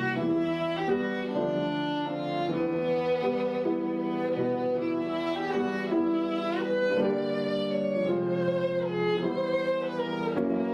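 Instrumental music of bowed strings, a violin playing slow held notes with slides between them over lower string chords.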